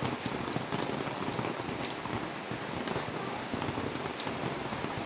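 Steady rain falling, with scattered sharp drop impacts heard over the even hiss.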